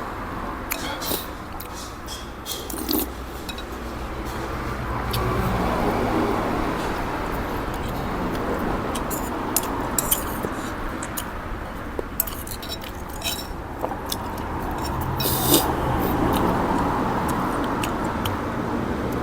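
Eating utensils clinking and tapping against a noodle bowl, many short sharp clicks scattered throughout, over a steady low background hum.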